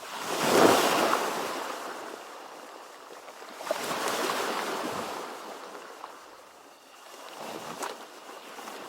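Ocean waves surging and washing in, rising and falling three times: a loud surge just under a second in, another about halfway through, and a weaker one near the end.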